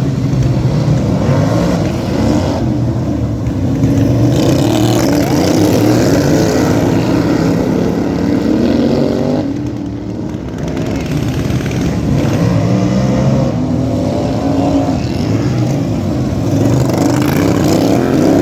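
Racing lawn tractor engines running hard, their pitch rising and falling as the drivers accelerate and back off; about halfway through the engine note drops and then climbs again, and near the end it rises once more.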